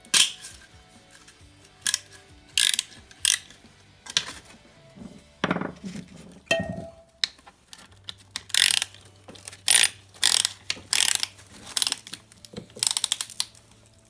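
Hand tools working on metal car parts: a series of short, irregular rasping and clicking strokes, with soft background music underneath.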